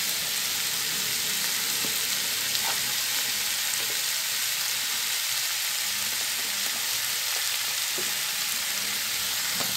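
Sliced mushrooms frying in hot oil in a nonstick pan: a steady, even sizzle, with a few faint light ticks.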